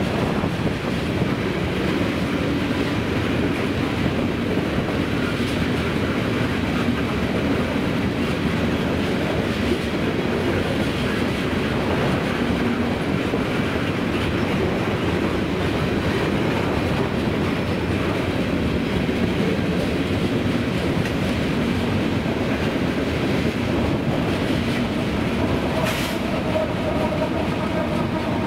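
Freight train tank cars rolling past with a steady rumble of steel wheels on rail and clickety-clack over the rail joints. Near the end a steady hum joins in as the trailing CN ET44AC diesel locomotive comes level, and there is one sharp click a couple of seconds before the end.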